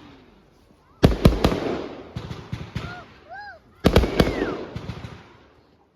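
Fireworks going off at a display: a cluster of three sharp bangs about a second in with crackling that fades away, then a second cluster of bangs just before the four-second mark, again trailing off into crackle.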